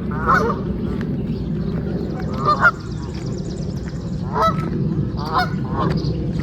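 A flock of geese honking, several separate calls a second or so apart, over a steady low background rush.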